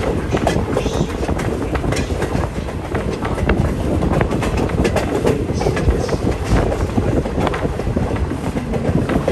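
Steady rumble of a moving railroad passenger coach heard from on board, with the wheels clattering over the track and irregular rattles and clicks from the car.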